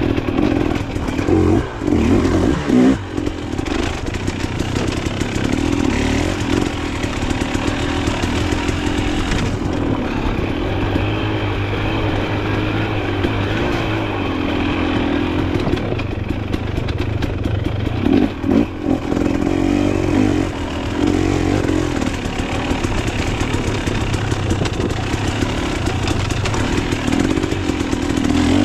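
Dirt bike engine running hard under changing throttle, its pitch rising and falling as the rider opens and closes the throttle, with short drops about two seconds in and again around eighteen seconds in.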